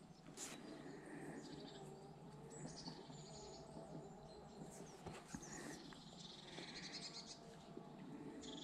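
Faint birdsong: many short high chirps and warbles from small birds, over a quiet outdoor background.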